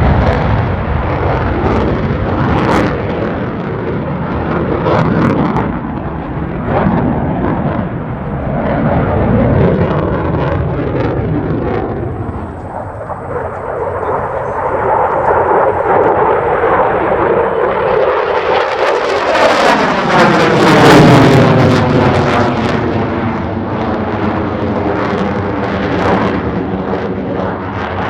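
F-16 fighter jet engine roaring during a display, easing off briefly a little before midway, then swelling to its loudest in a close pass about twenty seconds in, where the sound sweeps down in pitch as the jet goes by.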